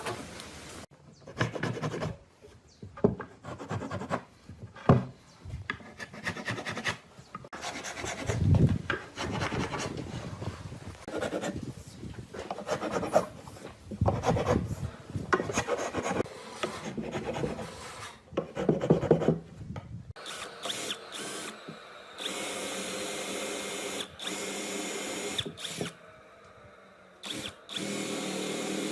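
Woodworking sounds: irregular knocks and scraping or rubbing on wood, then a power tool starts up and runs steadily, stopping for a moment and starting again near the end.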